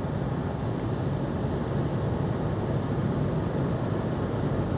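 Steady road and tyre noise inside the cabin of a moving 2020 VW e-Up electric car, with a low wavering hum.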